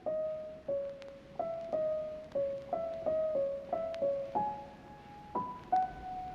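Electric-piano-style keyboard playing a slow melody of single notes, one at a time, each struck and then fading, about a dozen notes in all.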